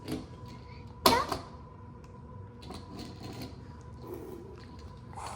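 Small die-cast and plastic toy monster trucks being handled on a table, making light clicks and knocks, with one sharp knock about a second in.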